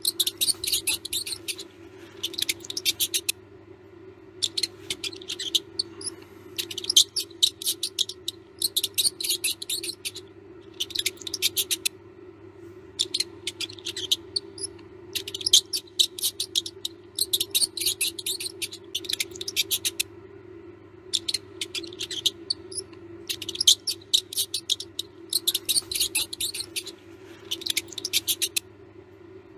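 Mouse squeaking in quick bursts of high chirps, each burst about a second long and repeating every second or two, over a steady low hum.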